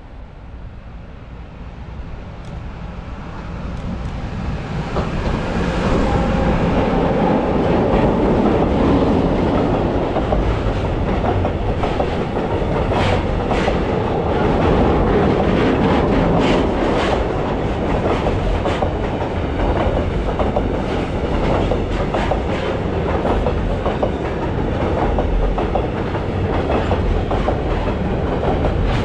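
Freight train approaching, growing louder over the first several seconds, then passing close with a steady rumble. From about halfway in, the wagon wheels clack repeatedly over the rail joints.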